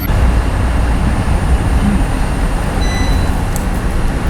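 Steady, loud low rumbling noise with a hiss on top, of the kind heard from road traffic or wind on a microphone.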